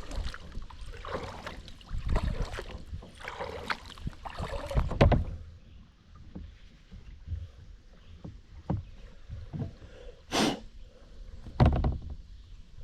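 Kayak paddle strokes swishing and splashing through the water, about one a second for the first five seconds, then quieter, with two short louder splashes or knocks near the end.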